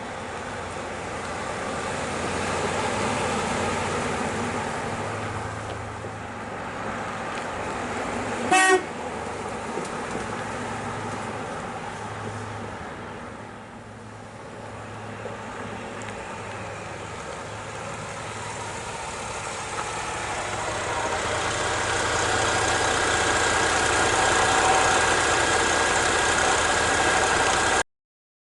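A 1984 Cadillac Coupe DeVille driving, its engine and road noise building up in the last several seconds, with one short horn honk about eight and a half seconds in. The sound cuts off suddenly near the end.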